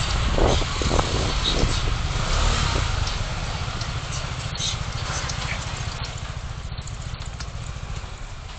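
Vehicle noise: a low, steady rumble that gradually fades away.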